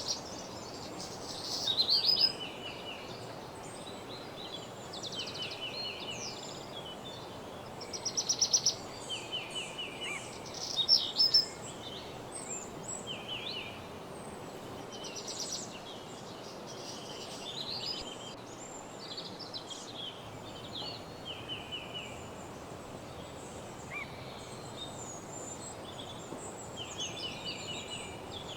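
Several songbirds singing and calling at once in woodland, overlapping trills and short chirped phrases, the loudest bursts about 2, 8 and 11 seconds in. A steady soft hiss of ambient background runs beneath them.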